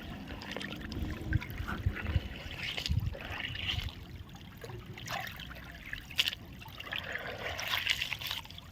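Shallow water trickling and splashing unevenly, with a few low thumps in the first three seconds.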